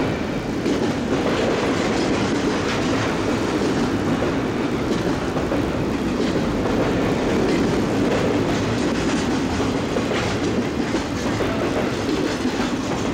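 CSX freight train's cars rolling past: a steady rumble of steel wheels on rail, with faint clicks scattered through it.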